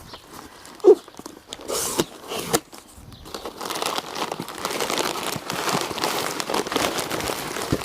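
Plastic packaging rustling and crinkling as it is handled, with a sharp knock about a second in; the crinkling turns continuous and louder from about three seconds in.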